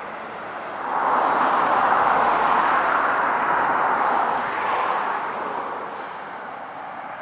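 A road vehicle passing: a steady rush of tyre noise swells about a second in, holds for a few seconds, then fades away.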